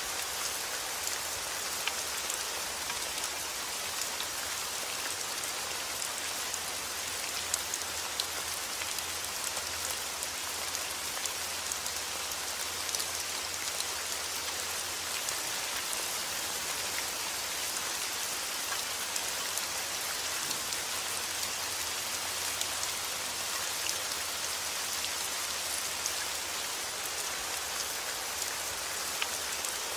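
Steady heavy rain falling outdoors: a constant hiss with many small drop ticks and no thunder.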